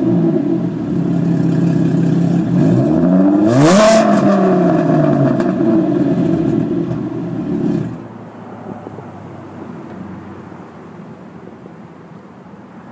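A 2011 Ford Mustang's 3.7-litre V6 runs through a straight exhaust: stock manifolds, a BBK X-pipe, 2012 GT mufflers, and no catalytic converters or resonators. It settles to idle from a rev, gives one quick blip that rises and falls about four seconds in, then idles. The engine sound stops suddenly about eight seconds in.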